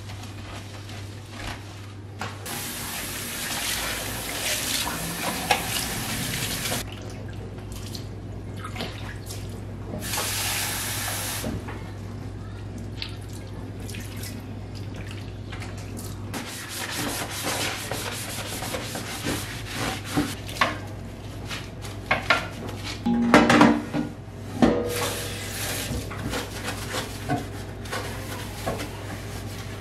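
Kitchen sink tap turned on and off several times, water running into the sink as dishes are washed. Clinks and knocks of dishes throughout, with a louder clatter about three-quarters of the way through. A low steady hum underneath stops about halfway.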